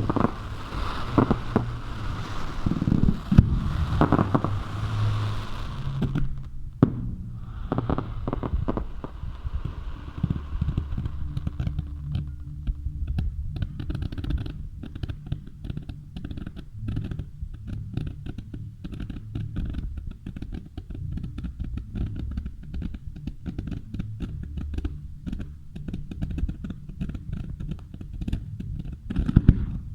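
Fireworks going off: sharp bangs and crackling for about the first six seconds. After that, only a low rumble with many small muffled clicks.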